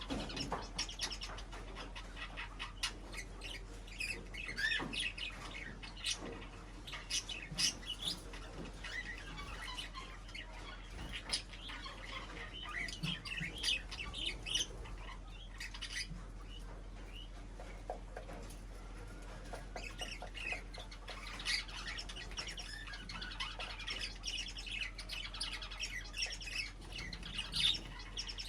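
A group of small cage birds chirping and calling constantly, with occasional harsher squawks and scattered sharp clicks over a steady low hum.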